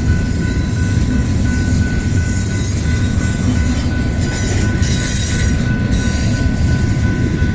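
BNSF intermodal freight train's cars rolling past close by: a steady heavy rumble of wheels on rail with a thin, steady squeal from the wheels.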